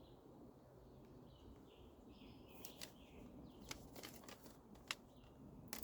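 Sharp clicks and crinkles of plastic meal packaging being handled, starting about halfway through and coming in irregular bursts, over faint bird chirps.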